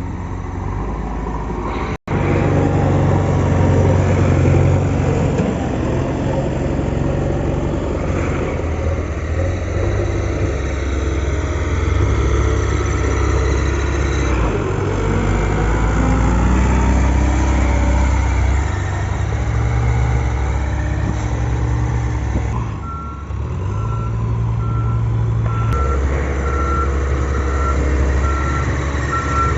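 Diesel engine of a JCB 3DX backhoe loader working, its pitch rising and falling as it revs under load, with a brief break about two seconds in. Near the end a reversing alarm starts beeping at a steady rate.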